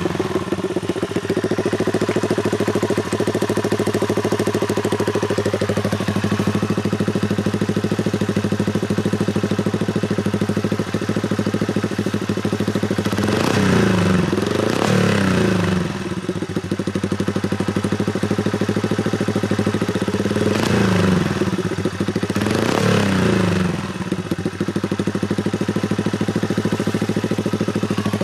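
Honda Super Cub's four-stroke single-cylinder engine idling steadily through an aftermarket up-swept muffler, with four short throttle blips that rise and fall, two close together midway and two more later.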